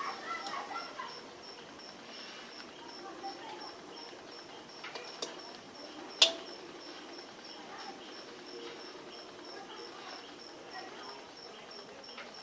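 An insect chirping steadily: short, even, high-pitched pulses about three a second. There is a single sharp click about six seconds in.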